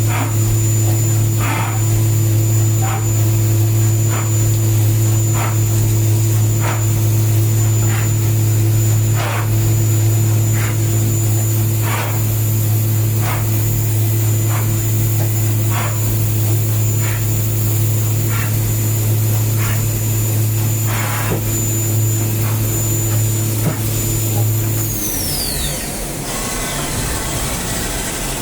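CNC milling machine running a countersinking job: a steady hum and a high spindle whine, with a short hiss-like stroke about every second and a half. Near the end the whine falls away and the hum stops as the spindle spins down.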